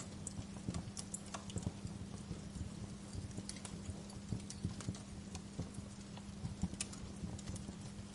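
Wood fire crackling in a fireplace: irregular sharp pops and snaps, unevenly spaced, over a soft hiss and a steady low hum.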